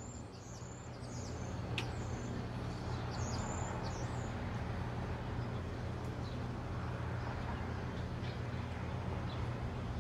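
Birds chirping in short, high calls, mostly in the first four seconds, over a steady low hum.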